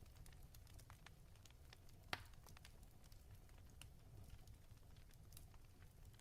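Wood fire in a fireplace crackling faintly over a low rumble, with scattered small pops and one louder pop about two seconds in.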